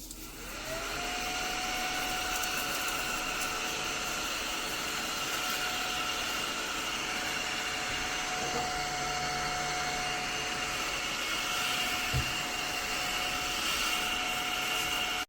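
Small motor of a cordless desktop mini vacuum cleaner spinning up, its whine rising in pitch in the first second, then running steadily.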